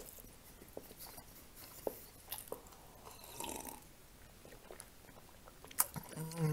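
Quiet close-up mouth sounds of a man chewing and sipping from a glass mug: soft wet clicks and smacks, with a short slurp about three and a half seconds in. Near the end, a brief falling 'mm' from his voice.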